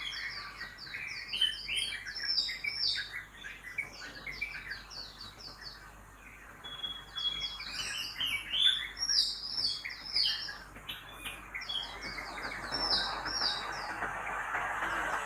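Many small birds chirping and singing together in a dense morning chorus of rapid repeated notes. Street traffic noise swells beneath them in the last few seconds.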